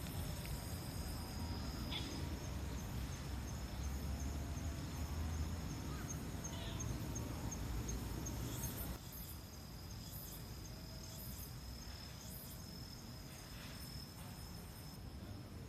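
Insects calling: a steady high trill together with a run of evenly spaced high chirps, over a low rushing noise that drops away about nine seconds in.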